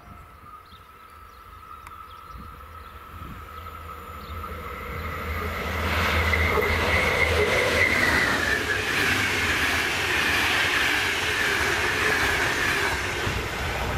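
A train approaching on the main line and passing close, its sound building over several seconds and staying loud to the end, with a high whining tone that slowly falls in pitch.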